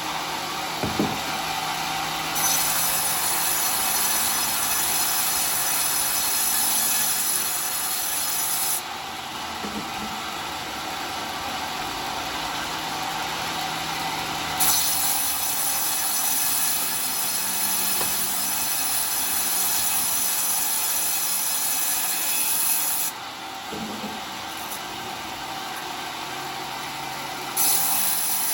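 Sawmill circular saw blade running with a steady whine, cutting coconut-palm wood three times with a loud hissing rasp. Each cut starts and stops abruptly, and the blade spins free between them.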